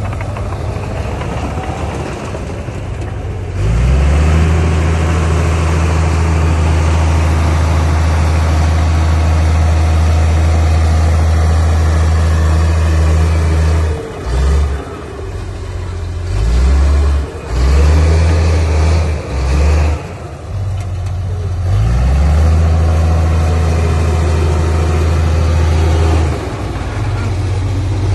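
Heavy diesel engine of earthmoving machinery working. It rises to a loud steady pull about three and a half seconds in and holds for about ten seconds, then surges in several short bursts, then pulls hard again for a few seconds near the end.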